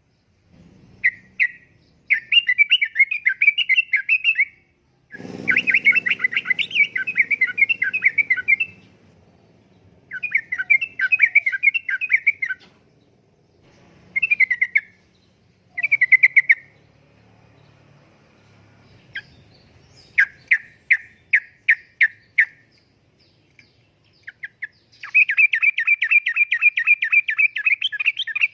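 Sooty-headed bulbul (trucukan) singing: bubbly, chattering phrases two to three seconds long with short pauses between them. After about twenty seconds comes a run of separate sharp notes, then a fast, even trill near the end.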